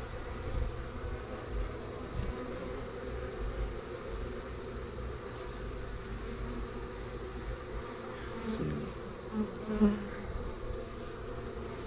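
Honey bees of a small swarm buzzing steadily in and around an open hive box, over a low rumble. The buzz swells briefly louder twice near the end.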